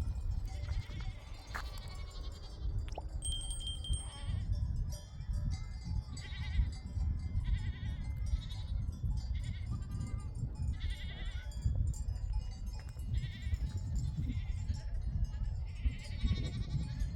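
Sheep bleating again and again in short separate calls, over a steady low rumble.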